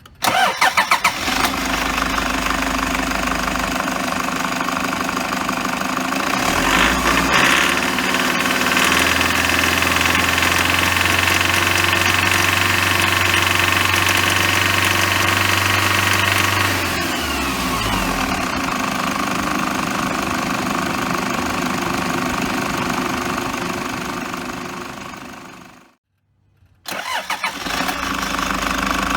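Toyota HiAce van's diesel engine cranking and catching, then idling. It is held at higher revs for about ten seconds before dropping back, is shut off shortly before the end, and restarts. It carries an abnormal noise that the mechanic traces to the fan-belt idler pulley.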